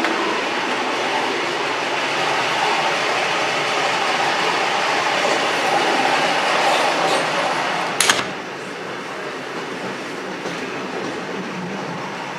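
Old train running on the rails, a steady dense rattle of wheels and carriage. About eight seconds in comes one sharp clack, after which the running noise is a little quieter.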